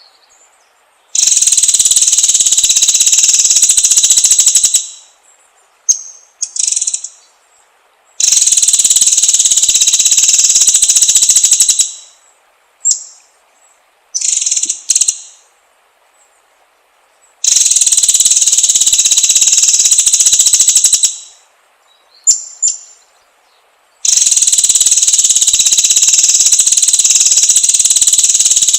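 White-rumped shama (murai batu) training recording: four loud, high buzzing trills of about three and a half seconds each, with short sharp chirps in the gaps between them.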